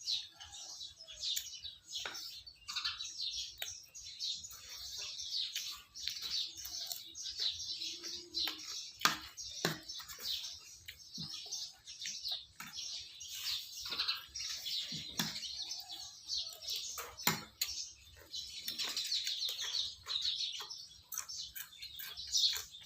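Small birds chirping and twittering continuously, with scattered sharp clicks and knocks among them.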